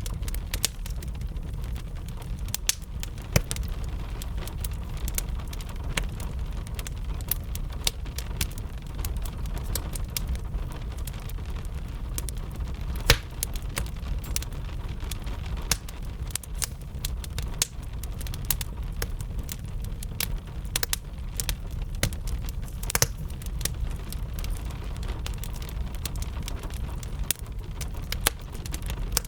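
Wood fire crackling with irregular sharp pops, a few louder snaps standing out, over a steady low rumble.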